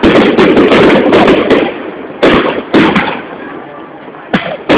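Fireworks going off: a rapid string of sharp bangs over the first three seconds, thinning out, then another bang near the end.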